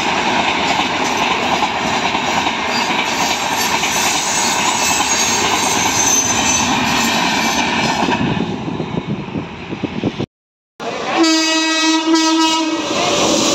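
An express train's passenger coaches pass at speed, a steady rush of wheels on rail that thins out about eight seconds in. After a short break, an approaching WAP7 electric locomotive's horn sounds a held blast, and a second, slightly lower horn note starts near the end.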